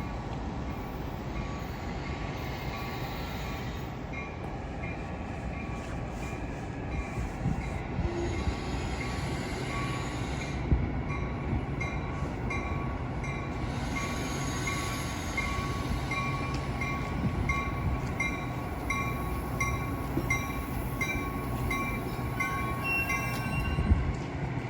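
Metra commuter train running through the station, a steady rumble with a thin squeal from the wheels and a bell ringing at an even pace, about three dings every two seconds.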